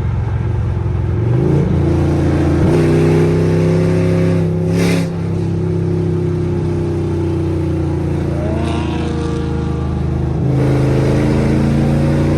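A car engine and exhaust running loudly while driving. The engine note steps up twice in the first few seconds, dips briefly about five seconds in, and drops to a lower note about ten seconds in.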